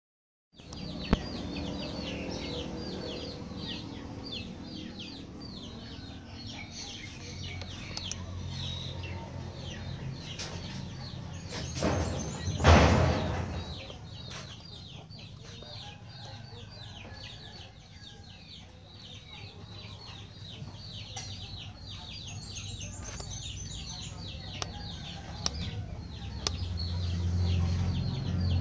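Birds chirping without pause, a quick run of short high chirps that each drop in pitch, over a low hum. A brief louder noise comes about halfway through.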